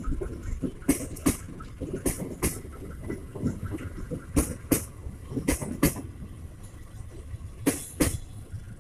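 Passenger train coaches rolling slowly past, their wheels clacking on the track in five pairs of sharp knocks over a steady low rumble.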